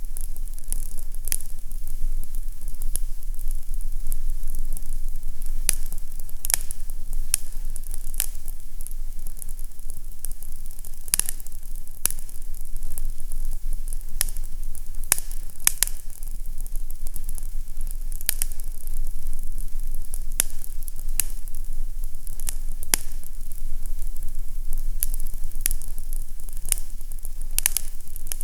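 Fireplace crackling: irregular sharp pops and snaps, a few a second, over a steady low rumble.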